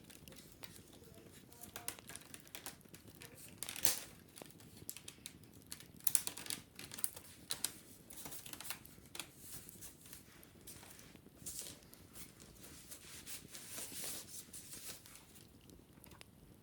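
Wicker basket being scratched and handled: dry, crackly rustling of woven cane in irregular bursts, with a few sharper clicks.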